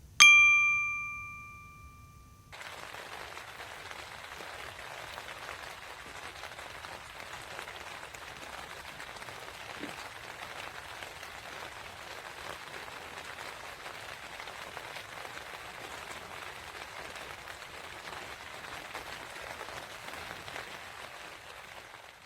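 A single bright bell-like ding, likely an editing sound effect, rings out and is cut off after about two seconds. Then a steady, even hiss of rain falling.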